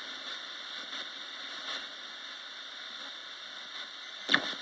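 Roberts radio giving out a steady hiss of static, with one short sharp crackle about four seconds in.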